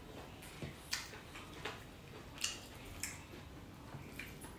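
Faint eating sounds of people chewing food: about half a dozen short, wet clicks and smacks at irregular intervals.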